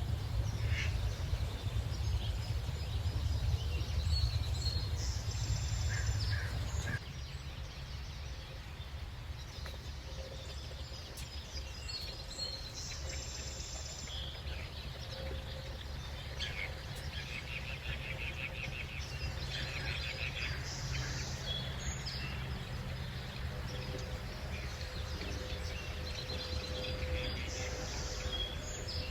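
Early-morning birdsong: scattered high chirps and short trills from several birds over a steady low background rumble, which drops abruptly about seven seconds in.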